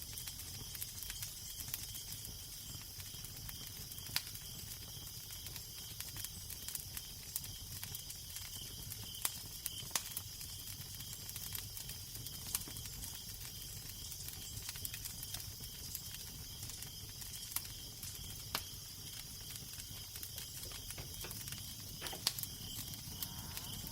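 Crackling fire: scattered sharp pops and snaps, a second or so apart, over a steady hiss, with a low wind rumble underneath.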